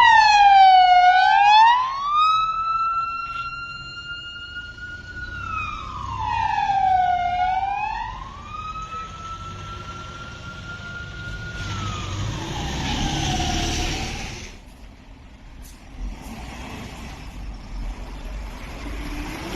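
Emergency vehicle siren with a slow wail: its pitch drops, sweeps back up and holds high, three times over, then falls away about fourteen seconds in. A rumbling noise follows.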